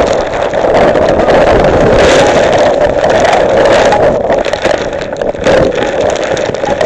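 Violent rainstorm: strong wind and heavy rain making a loud, steady rushing noise, with wind rumbling on the microphone, easing a little for a moment about two-thirds of the way through.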